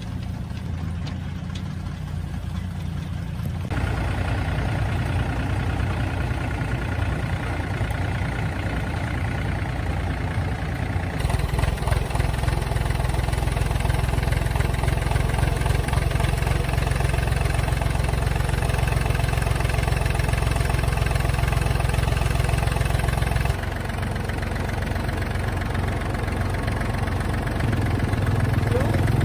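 A motor-driven machine running steadily with a low hum, in several cut-together stretches that change abruptly in tone and loudness.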